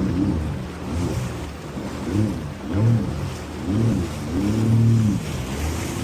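Jet ski engine revving up and down in short surges, roughly one every half second to second, with a longer, steadier surge near the end.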